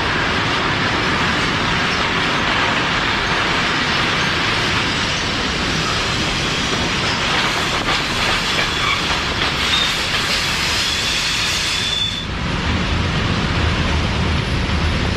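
Freight train rolling along the rails, heard from on board: steady loud rumble and rattle of the wagons and wheels. A thin, high wheel squeal comes in briefly about ten seconds in, and the sound turns to a lower rumble near the end.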